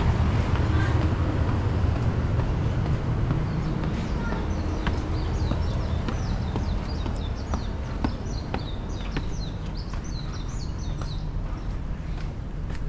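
Small birds chirping in quick repeated notes from a few seconds in, over a steady low city rumble. Footsteps tap on concrete at a walking pace.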